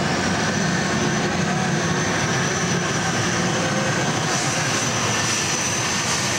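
Modified pulling tractor running at full power down the track: a loud, steady engine noise with a thin high whine that holds throughout.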